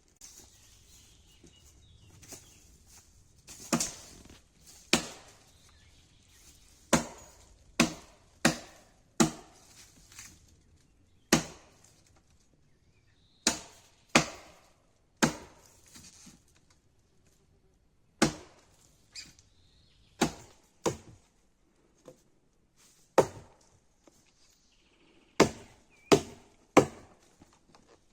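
An axe chopping wood: about twenty sharp strikes at irregular intervals, some in quick pairs, each dying away quickly.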